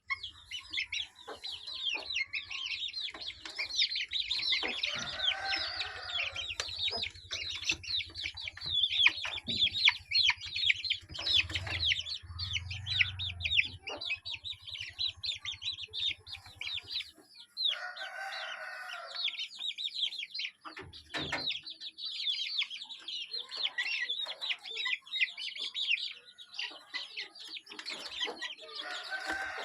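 Many small birds chirping densely and without a break, with a rooster crowing three times: about five seconds in, past the middle, and near the end.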